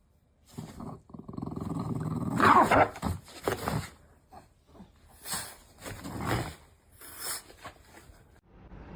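A dog growling in a string of separate outbursts; the loudest comes two to three seconds in, with shorter ones after it.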